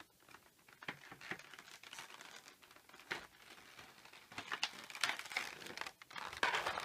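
Plastic packaging crinkling and clicking as an action figure is handled and worked free of its packing, with sharper, denser crackles in the last couple of seconds.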